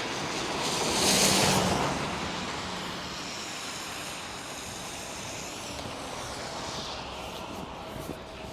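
City bus pulling in to the stop, a broad rush of engine and tyre noise loudest about a second in, then easing to a steady hiss. A faint steady whine comes in near the end.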